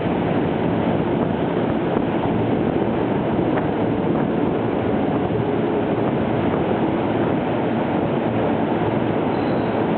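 Steady running noise of a JR 185 series electric train at the station platform, with no horn or single sharp sound standing out.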